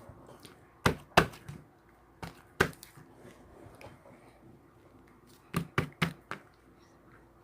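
Sharp taps or knocks on something hard, in two groups: four in the first three seconds, then four more in quick succession about five and a half seconds in.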